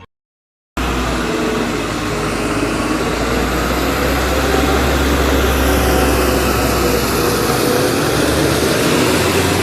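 After a brief dead silence, a loud, steady engine noise with a hiss over it and a low rumble that eases off near the end.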